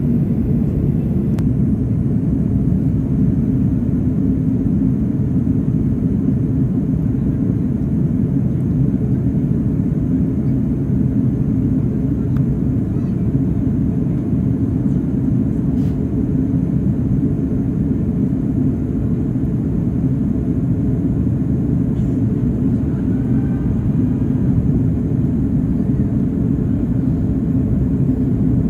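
Steady low rumble of an airliner's engines and airflow heard inside the passenger cabin during the descent.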